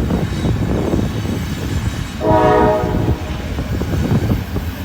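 Freight train horn sounding one short blast of about a second, roughly halfway through, a chord of several steady tones that starts and stops abruptly. Under it, a steady rumble of wind and the train runs throughout.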